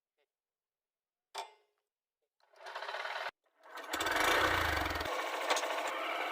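Tractor's diesel engine running with a rapid mechanical clatter. It comes in about two and a half seconds in, cuts out briefly, then returns louder.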